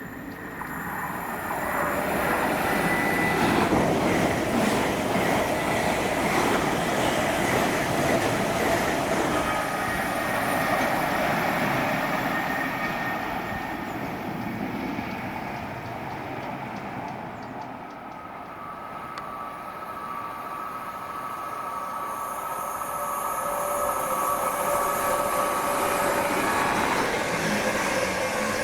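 A train running through the station: wheel-and-rail noise builds about a second in and eases off after about sixteen seconds. Near the end it builds again with steady tones over the rushing.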